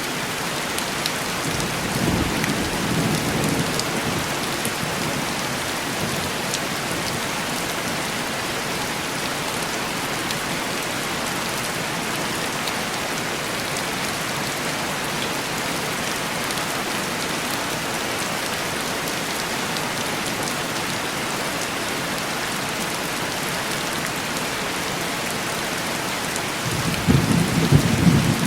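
Steady heavy rain tapping on a window pane. A low rumble of thunder swells about two seconds in, and a louder one rolls in near the end.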